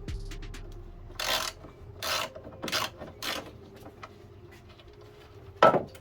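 Four short rasping scrapes, about two-thirds of a second apart, then one sharp knock near the end, the loudest sound here: parts or tools being handled during work on a car.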